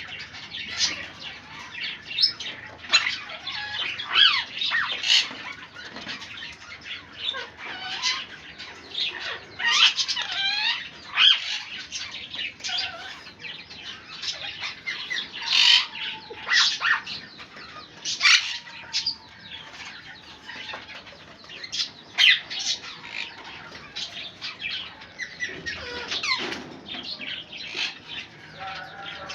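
A pair of parrots calling: repeated short, harsh squawks and chirps, some with quickly rising and falling whistled notes, coming every second or so.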